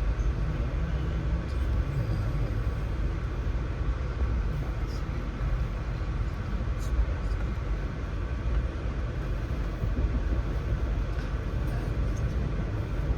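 Amtrak passenger train running on the rails: a steady low rumble with a few faint clicks.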